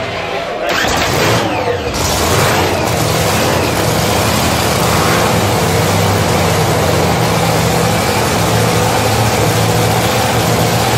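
Supercharged V8 drag-racing engine in a Camaro drag car catching about a second in, then running loud and steady at idle.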